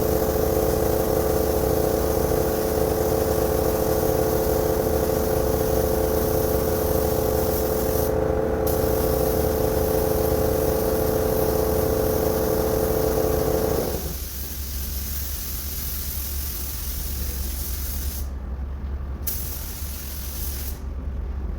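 Compressed-air spray gun hissing as it sprays, with brief pauses of the trigger. Under it runs a steady humming tone that cuts off about fourteen seconds in.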